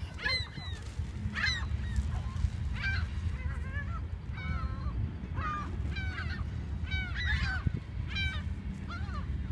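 A flock of gulls calling, many short harsh cries overlapping about every half second, over a steady low rumble.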